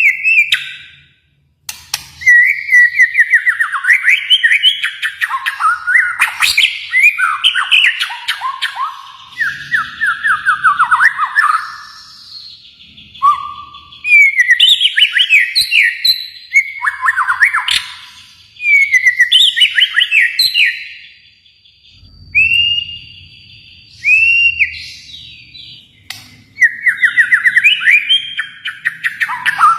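White-rumped shama (Kalimantan murai batu) singing: a run of loud, rapidly varied whistled phrases broken by short pauses.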